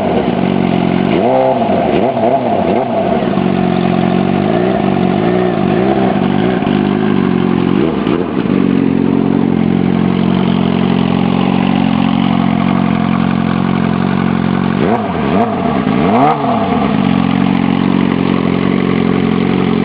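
2006 Suzuki GSX-R600's inline-four engine idling steadily and being blipped on the throttle: a quick rev about a second and a half in, a run of smaller blips over the next several seconds and another around eight seconds in, then two more revs about fifteen and sixteen seconds in, each dropping straight back to idle.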